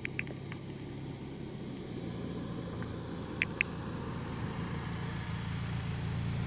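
A car engine running with a steady low rumble that slowly grows louder, with two short sharp ticks about halfway through.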